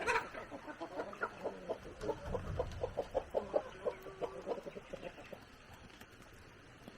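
Chickens clucking in a rapid run of short repeated calls that die away a little after five seconds in.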